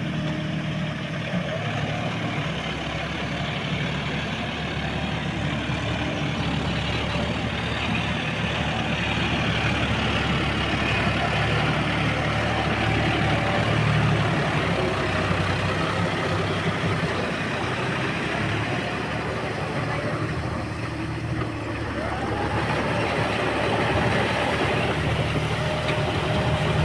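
John Deere 5210 tractor's three-cylinder diesel engine running steadily, its pitch shifting upward a little over twenty seconds in.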